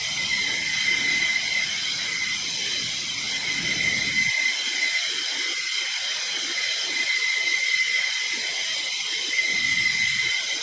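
Fighter jet turbofan engines running steadily: a constant high-pitched whine over a hiss.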